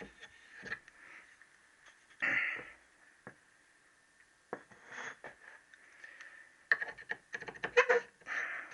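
Light clicks and taps of metal engine parts, the conrods and gudgeon pin, being handled on the workbench. They come scattered, with a quick cluster near the end, over a faint steady high hum.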